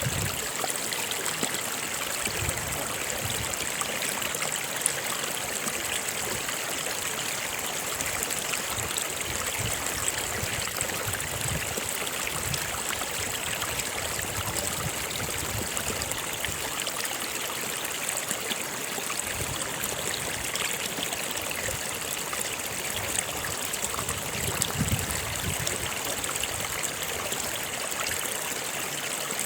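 Stream water flowing steadily, a continuous rushing noise with irregular soft low pulses now and then.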